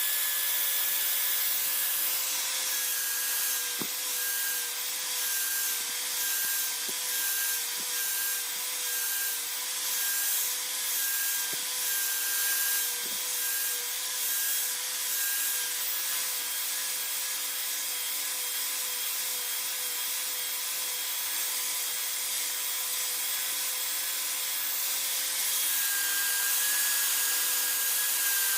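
An electric sander or grinder runs steadily with a constant hum while a workpiece is rubbed against it with a rasping hiss. For the first half the hiss comes in regular back-and-forth strokes, about one and a half a second, and then it settles into a steady grind.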